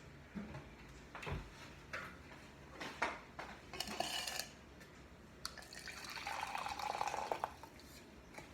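A few knocks of kitchenware, then water poured into a container for about two seconds near the end: the cup of boiling water for the cake batter being measured out.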